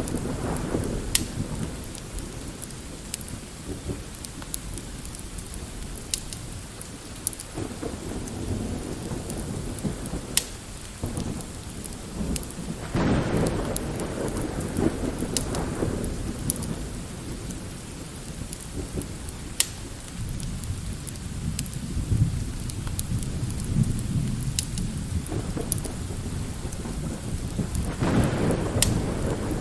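Steady light rain with distant rolling thunder that swells into low rumbles several times. Scattered sharp crackles from a log fire sound over it.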